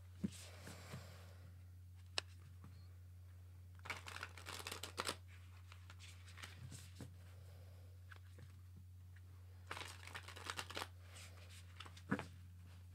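Tarot cards being shuffled and handled: two short, faint bursts of card rustle, about four seconds in and again about ten seconds in, with a few single card snaps between.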